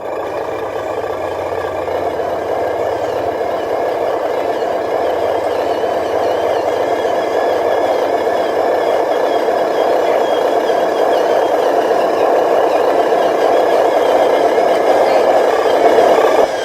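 Radio-controlled dump truck running with a steady engine-like drone that grows slightly louder toward the end and stops abruptly.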